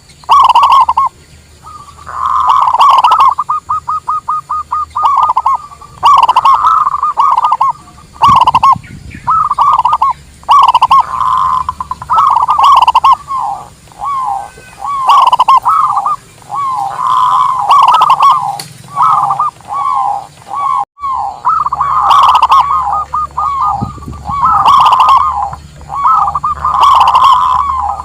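Zebra doves cooing: rapid, stuttering phrases of soft coos and trills, repeated one after another, with a momentary break about three quarters of the way through.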